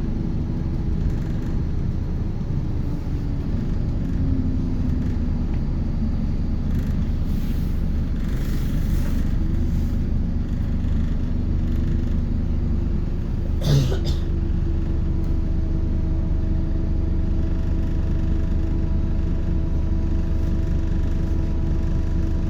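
Scania K230UB city bus heard from inside the cabin while under way: a steady low rumble from its five-cylinder diesel and drivetrain, with a steady hum settling in about halfway through. A single short knock comes a little past the middle.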